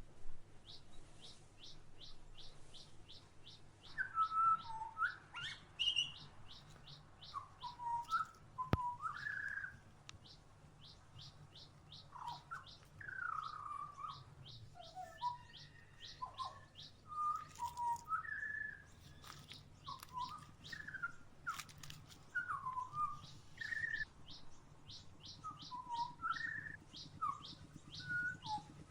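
Wild songbirds calling at a backyard feeder: a long run of quick, high chip notes, about four a second, over varied lower whistled phrases that slide up and down.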